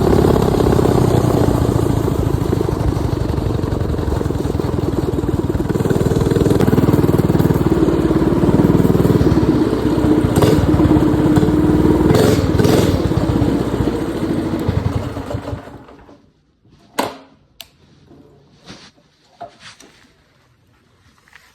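Minibike's 212cc single-cylinder four-stroke engine running loudly, its pitch shifting with the throttle, then dying away about fifteen seconds in. A couple of sharp knocks follow.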